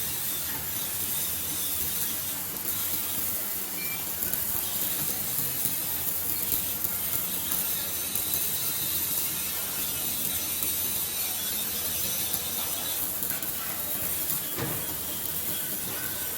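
Electric welding arc running steadily with a continuous crackling hiss.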